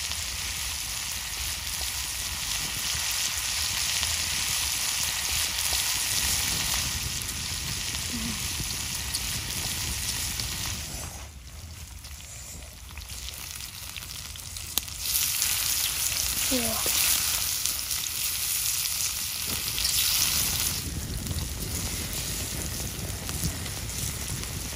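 Chili, garlic and wild mushrooms frying in oil on a hot flat stone over a wood fire: a steady sizzle that drops away for a few seconds about halfway through, then comes back louder.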